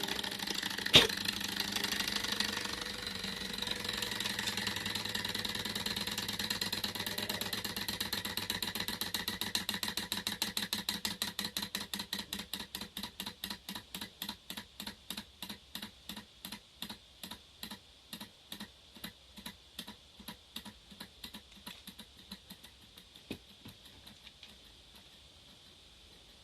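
Thermoacoustic engine model coasting down after its burner flame is put out: a fast, even mechanical ticking from the piston and flywheel that slows steadily and fades away, stopping near the end. Two sharp clicks sound in the first second.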